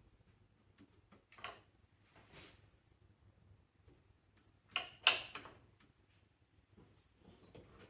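Scattered clinks and clunks of hand tools and metal parts being handled during engine work, with a louder double clatter about five seconds in.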